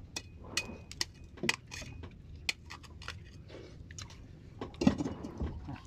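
Close-up chewing and biting while eating raw sea urchin, with a run of small crunches and sharp clicks; the loudest crunch comes just before five seconds in.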